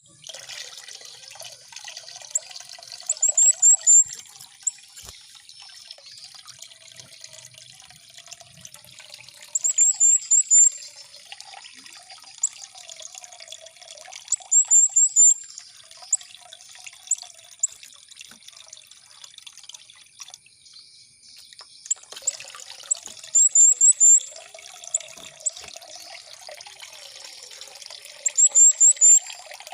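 A mantenan songbird sings short, rapid, high-pitched trills about five times, each burst lasting about a second. Steady trickling, dripping water runs underneath.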